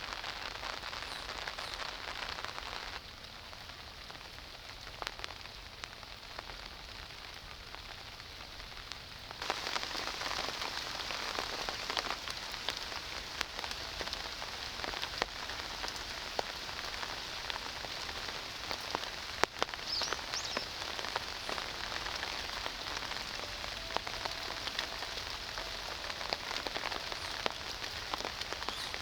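Steady rain falling, with many close drops heard as separate small clicks. It drops to a quieter level about three seconds in and comes back louder after about nine seconds.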